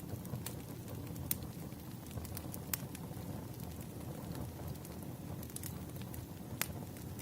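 Wood fire in a fireplace crackling: a low steady rumble with scattered sharp pops and snaps, a few louder ones every second or two.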